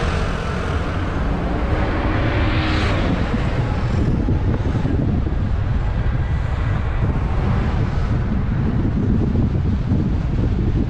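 Car driving on the road: a steady low rumble of engine and road noise, with wind buffeting the microphone. A hiss swells briefly about two to three seconds in.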